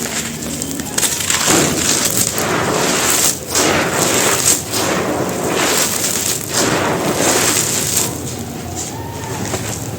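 Big soft chunks of bajri (gravel) stone being crushed and crumbled, a run of dry, gritty crunches that ease off near the end.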